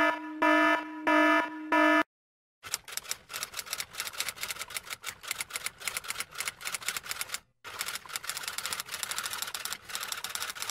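Four short electronic beeps of one steady tone, then after a brief pause a long run of rapid typing clatter, many key strikes a second like a typewriter.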